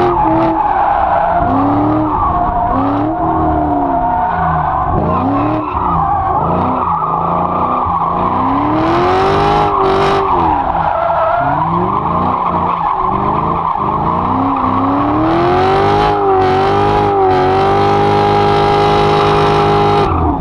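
Dodge Challenger SRT8's HEMI V8 revving up and down again and again under hard throttle while the tyres skid through a drift. Near the end the engine is held at steady high revs.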